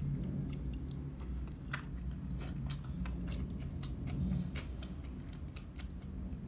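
Close-miked chewing of crispy flour-coated fried chicken: irregular small crunches and mouth clicks over a steady low hum.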